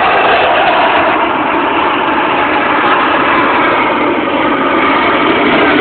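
Loud, steady engine noise from aircraft flying low overhead.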